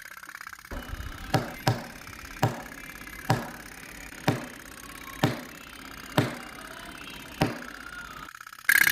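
About eight sharp knocks, roughly one a second, over a faint steady hum. Just before the end a small engine starts up loudly.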